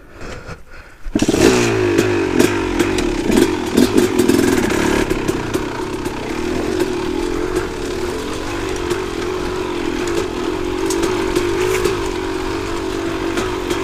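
2-stroke KTM dirt bike engine starting up about a second in, then running steadily near idle with small rises in revs and a light clatter.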